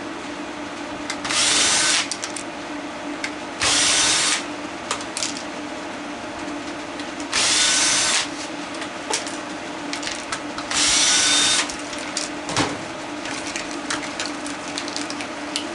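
Cordless drill-driver running in four short bursts of about a second each, backing out screws. A steady low hum runs underneath, and there is a single sharp click about three quarters of the way through.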